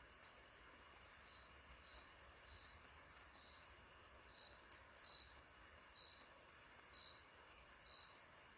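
Faint chirping of a cricket: short high chirps, one roughly every second, starting about a second in, over a low hiss with a few faint ticks.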